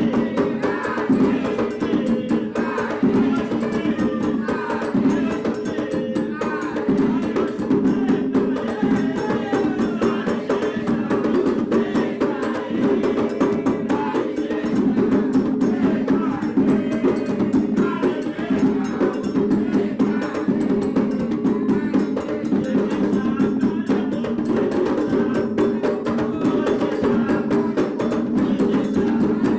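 Candomblé atabaque hand drums, led by the rum, playing a steady, dense rhythm for Oxum, with sharp wood-block-like strokes keeping time and voices over the drumming.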